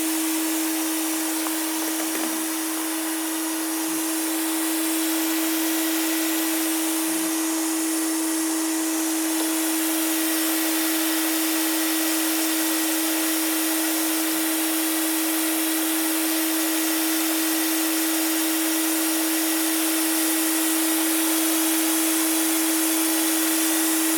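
Homemade bee vacuum running steadily: a constant motor hum with rushing air, its light suction drawing bees through the hose into the box.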